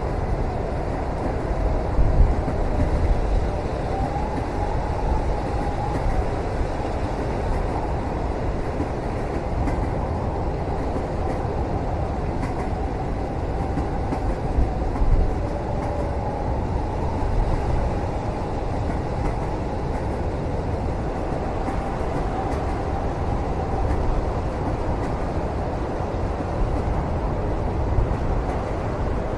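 Steady low rumble of a moving train heard from inside a passenger cabin, with a faint wavering whine and a few soft knocks.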